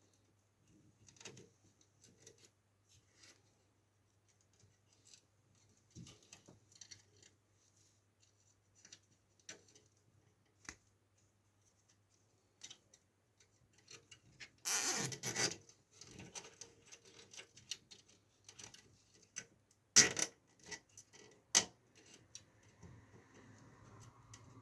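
Scattered small clicks and rustles of PC power cables being handled and strapped down with velcro cable ties. A louder rasp of about a second comes about fifteen seconds in, and a sharp click about five seconds later.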